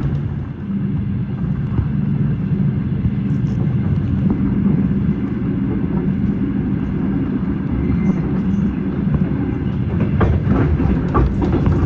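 Passenger train running along the track, heard from inside the carriage: a steady low rumble with a constant hum. A run of sharp clicks comes in near the end.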